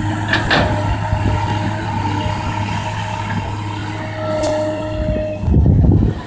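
Kobelco excavator's diesel engine running steadily, with a couple of sharp metallic knocks about half a second in and a louder low rumble near the end.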